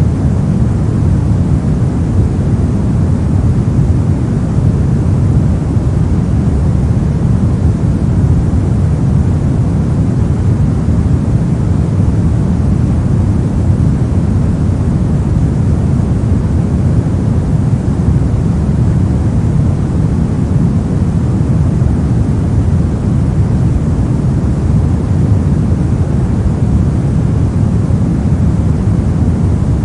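Steady, loud synthetic noise with most of its energy low and falling off toward the treble, deep and rumbling like distant wind or engine drone, unchanging throughout. It is the pink noise of a noise-masking track.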